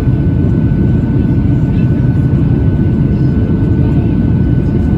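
Steady cabin noise inside a Boeing 737-800 during descent: the low roar of its CFM56 jet engines and the airflow over the fuselage, with a faint steady whine above it.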